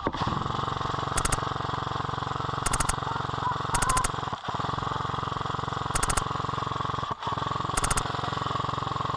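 Airsoft light machine gun firing one long continuous burst, its electric gearbox cycling rapidly in an even chatter, with about five short louder bursts on top; it stops abruptly at the end.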